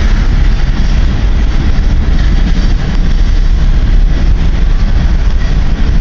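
Long CN freight train rolling slowly past, its cars making a loud, steady rumble.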